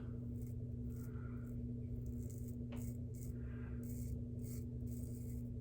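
A shavette razor with a half double-edge blade scraping stubble through slick lather in a series of short strokes, heard as feedback from the blade. A steady background hum from running laundry machines lies under it.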